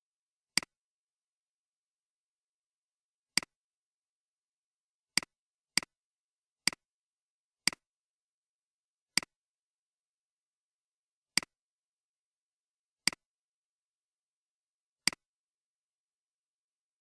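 Computer mouse clicking: ten single, sharp clicks at uneven intervals, with dead silence between them.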